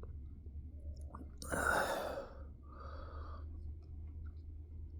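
A man's heavy sigh about a second and a half in, then a softer breath out a moment later, as he struggles to keep eating a very sweet candy.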